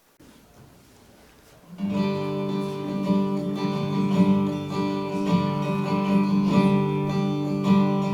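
Faint room noise, then about two seconds in an acoustic guitar starts playing chords: the opening of a slow ballad's intro.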